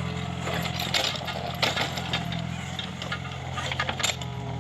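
Mini excavator's diesel engine running steadily under load, with several sharp knocks and rattles over it, the loudest about a third of the way in and near the end.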